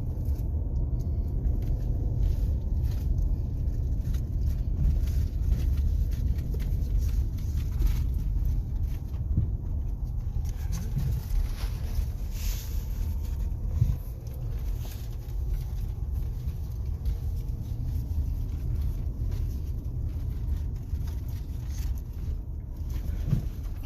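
A car driving, with a steady low road and engine rumble and no other sound standing out.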